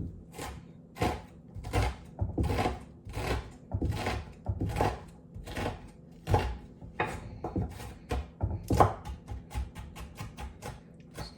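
Cutco kitchen knife chopping an onion on a cutting board: sharp knocks about two a second, quickening to a rapid run of about four a second near the end as the onion is diced into tiny pieces.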